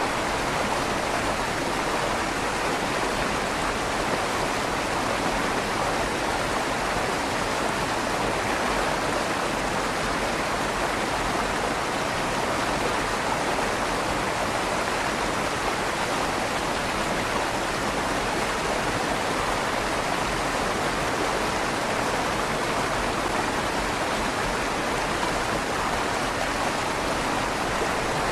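River water rushing steadily under a stone bridge, with a slight echo off the inside of the stone tunnel. An even, unbroken flow without splashes or changes.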